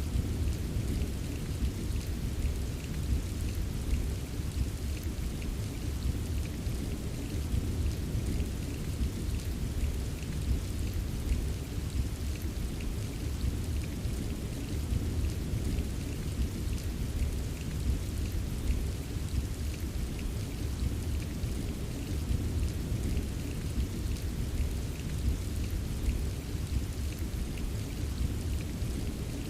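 Steady rain ambience: an even wash of heavy rain with a deep constant rumble underneath and many small drops pattering on a surface.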